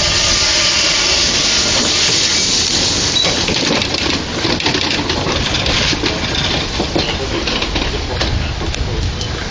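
Quarry Hunslet narrow-gauge steam locomotive: a steady hiss of steam, then from about four seconds in a run of irregular short knocks.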